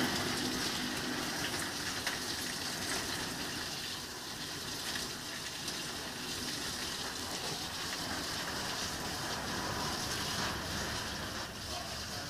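Thunderstorm downpour: heavy rain falling steadily as a dense, even hiss.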